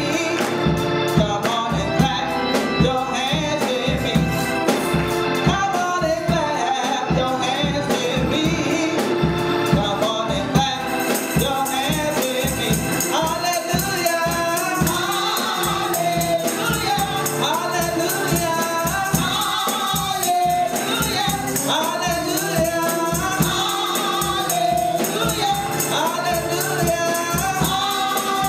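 Gospel music: voices singing together over a steady beat with a shaken tambourine. The sound gets brighter about a third of the way through.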